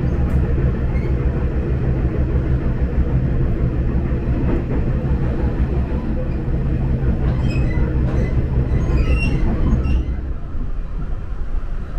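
Passenger train running, heard from inside the carriage: a steady low rumble, with a few short high squeaks between about seven and ten seconds in.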